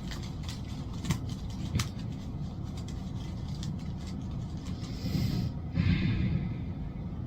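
A steady low rumble with a run of light clicks in the first two seconds and two short breathy or rustling noises about five to six seconds in.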